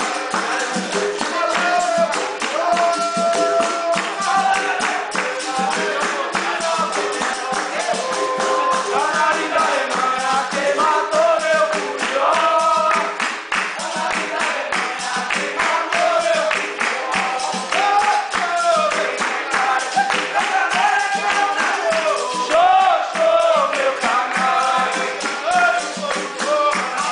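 Live capoeira roda music: voices singing over a steady, dense rhythm of pandeiro and other hand percussion.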